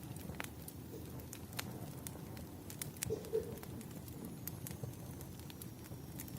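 Wood fire crackling: a soft steady rumble of burning logs with scattered sharp snaps and pops. A brief two-part low blip sounds just after the middle.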